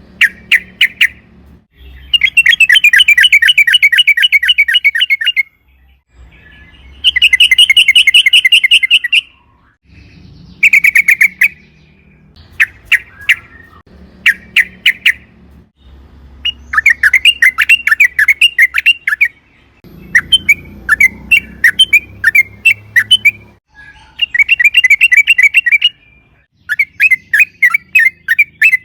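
Yellow-vented bulbul (trucukan) singing: repeated bursts of rapid chattering notes, several drawn out into long rolling phrases of about three seconds, with short pauses between them.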